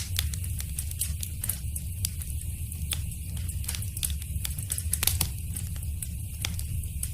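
Wood fire in a fireplace crackling: irregular sharp pops and snaps, several a second, a few louder than the rest, over a steady low rumble.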